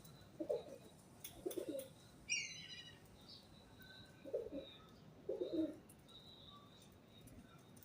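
Pigeons cooing in four short, low phrases, with one sharp, falling chirp from a smaller bird a little over two seconds in and faint high chirping in the background.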